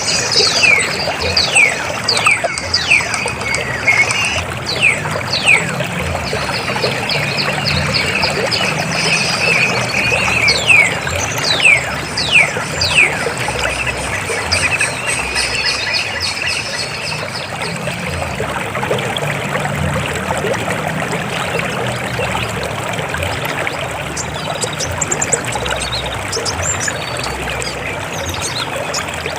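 River water flowing steadily. Through the first half, a bird repeats quick, sharply falling whistled notes, which then fade out.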